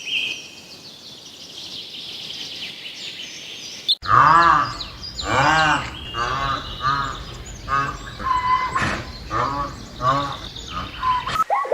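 Farm animal calls: high chirping for the first four seconds, then, after a sudden cut, a run of loud repeated calls, each rising and falling in pitch, about two a second.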